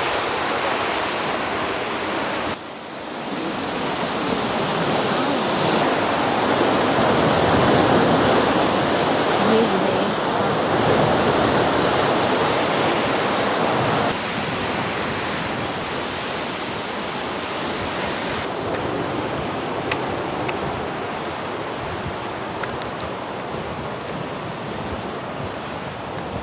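Rushing water, a steady roar that drops abruptly about 2.5 s in, swells again, and falls to a quieter level about 14 s in.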